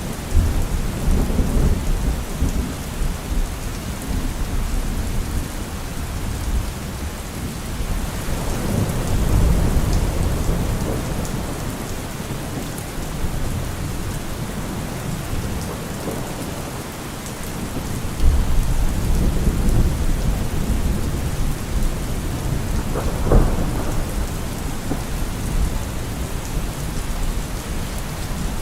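Steady rain with thunder rolling through it several times: long low rumbles swelling near the start, about a third of the way in and again for several seconds past the middle, with one sharper crack a few seconds before the end.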